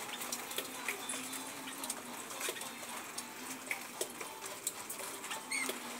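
Lory (nuri parrot) giving short scattered clicks and chirps, with a few brief squeaky calls about a second in, near the middle and near the end.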